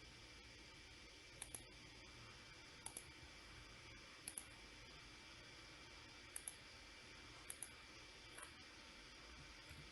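Computer mouse double-clicking: sharp paired clicks every second or two, over a faint steady hiss.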